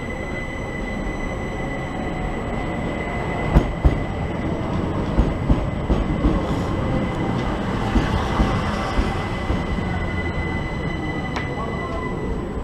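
Southern passenger train running in along the platform: rumbling wheel and rail noise under a steady high-pitched whine, with a few sharp clacks from the wheels about three and a half seconds in and again near the end.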